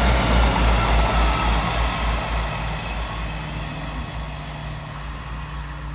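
East Midlands Railway class 158 diesel multiple unit running past, its diesel engines and wheels making a heavy low rumble that fades steadily as it draws away.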